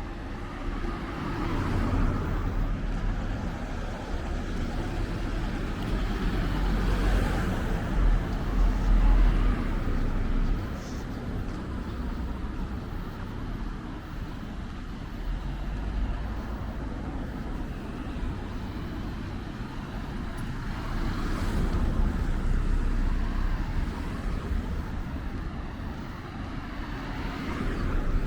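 Street traffic: several vehicles passing one after another, each swelling up and fading away over a low, steady rumble.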